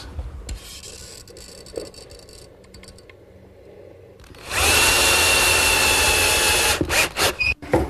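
Power drill driving screws: after a few quiet seconds it runs for about two seconds with a steady whine, then gives a few short bursts near the end.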